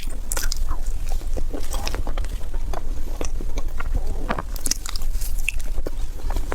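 Close-up biting and chewing of crunchy food: irregular crunches and clicks over a low rumble.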